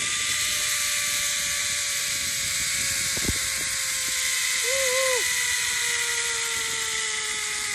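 Zipline trolley pulleys whirring along the steel cable: a steady whine that slowly falls in pitch over a constant hiss, with a single click about three seconds in.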